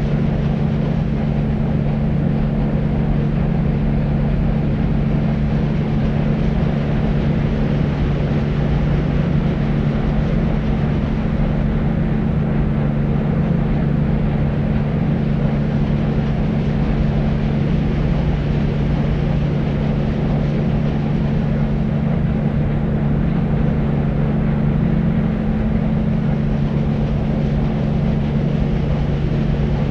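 Deep white noise: a steady, unbroken hush weighted heavily toward the bass, with a low hum near the bottom and little treble.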